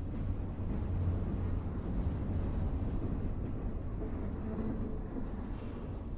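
A train rolling by with a steady low rumble, loudest about a second or two in and slowly easing off toward the end.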